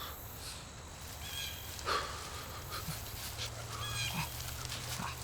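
Short animal calls: a few brief high chirps, with one louder call about two seconds in, over a low steady background hum.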